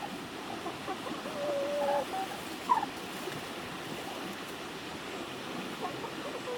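Poultry calling a few times in short calls, one drawn out for under a second and one short, sharp rising call about three seconds in. A steady hiss runs underneath.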